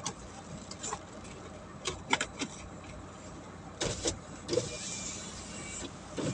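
Clicks and knocks in and around a car, over a low steady hum, with a quick cluster of sharp knocks about four seconds in followed by a short whirring hiss.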